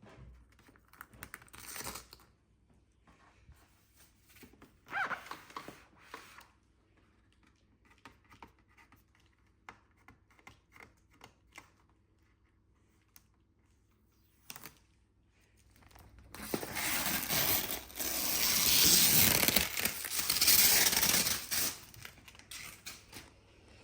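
Polythene and packaging being pulled off an unboxed fan heater: short bursts of crinkling and rustling with scattered light clicks, then, about two-thirds of the way in, a loud run of tearing and rustling plastic lasting several seconds.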